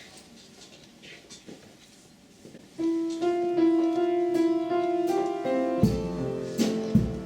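Worship band starting a song: after a few quiet seconds a keyboard comes in with held chords about three seconds in, and drum beats and bass join about three seconds later.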